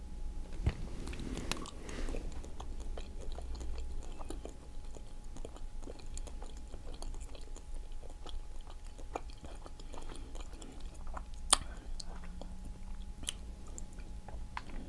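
Close-up eating sounds of octopus being handled and chewed: soft, scattered wet clicks and smacks, with a few sharper clicks near the end.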